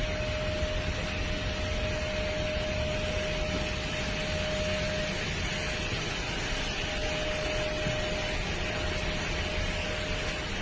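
Steady rushing noise of a jet airliner, with a faint steady whine that drops out for about two seconds midway and then returns.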